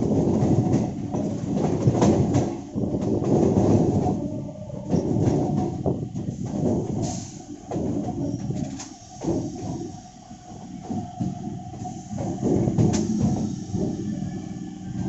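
Electric multiple unit commuter train running on the track, its wheels clattering with many sharp clicks over rail joints. The noise swells and dips as it goes.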